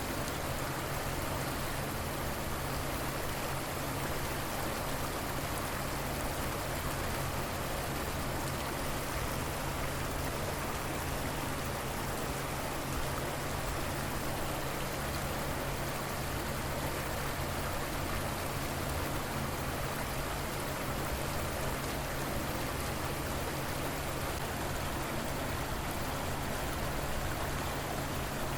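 River water flowing and burbling in a steady, even rush.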